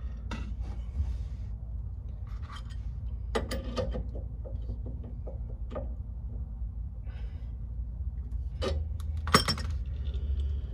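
Irregular metal clinks and clanks of tools and hardware being worked against the car's rear shock mount, the loudest clank near the end, over a steady low hum.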